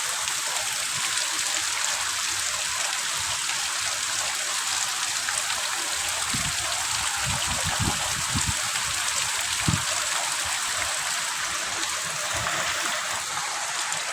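Heavy rain falling steadily, a dense even hiss of drops, with a few low thumps about halfway through.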